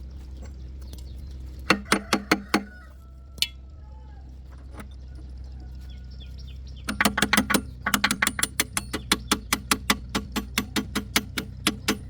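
Metal being hammered: a handful of sharp ringing blows about two seconds in, then a fast, even run of strikes, about five a second, from about seven seconds in, over a steady low hum.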